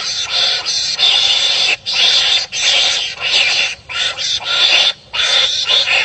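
Harsh, raspy animal calls in quick succession, each burst under a second long with brief breaks between, like animals barking at each other in a scuffle.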